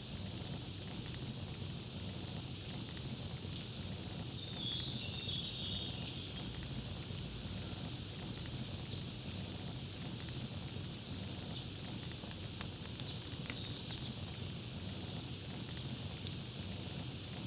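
Campfire crackling steadily, with scattered small pops over the hiss of the flames. A bird twitters briefly about four to six seconds in.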